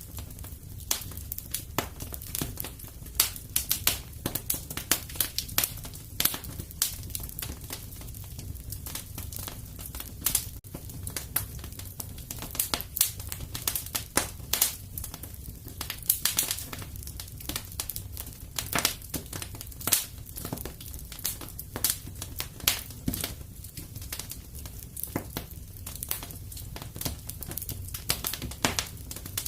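Fire in a fireplace crackling: irregular sharp pops and snaps, several a second and some louder than others, over a steady low rumble of the flames.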